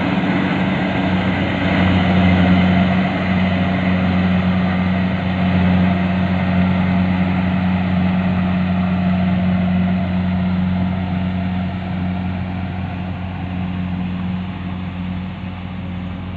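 Engine running steadily at a constant speed, easing off a little in the last few seconds.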